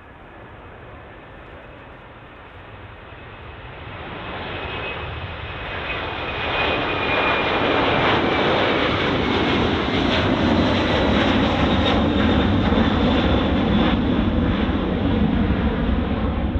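Jet airliner passing close, its engine noise swelling from about four seconds in to a loud, steady roar with a high whine that slowly falls in pitch as it goes by.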